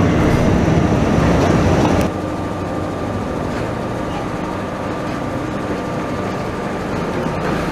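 Train running, heard from aboard Bz carriages hauled by an M47 diesel locomotive. The noise drops suddenly about two seconds in to a steadier, quieter rumble with a faint high whine.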